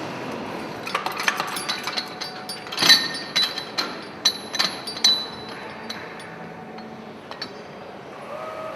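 Steel tools and engine parts clinking and clanking against each other: a quick run of sharp metallic knocks with a brief ring, over a steady background hiss. Near the end a steady hum sets in.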